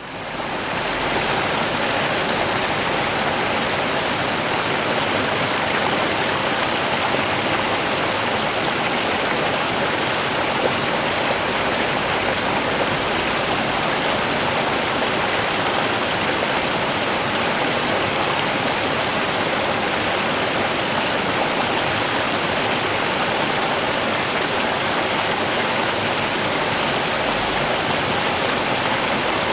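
River water flowing: a steady, even rush that fades in over the first second.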